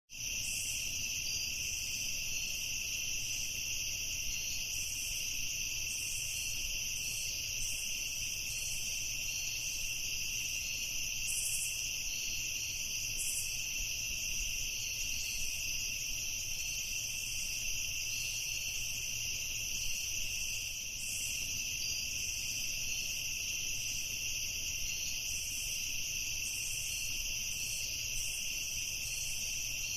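Night insects chirring in a steady, unbroken chorus of high-pitched trilling, with lighter flickering chirps above it.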